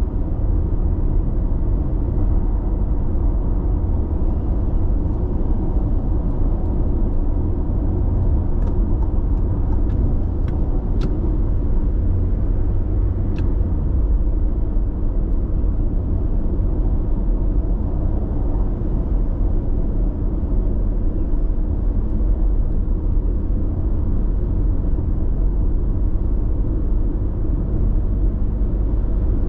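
Steady low road and engine noise of a car driving on an expressway, heard from inside the cabin. A few faint ticks come about ten seconds in.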